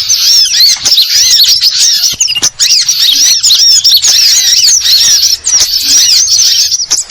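A loud, dense chorus of many small songbirds, sunbirds among them, chattering at once: rapid, high twittering calls that overlap continuously.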